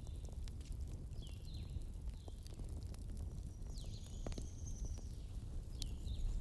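Wood fire burning with a steady low rumble and scattered sharp crackles and pops. Short high chirping squeals come every half second or so, with one longer high whistle in the middle.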